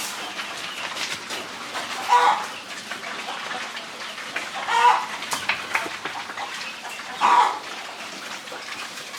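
A farm animal calling again and again, one short call about every two and a half seconds.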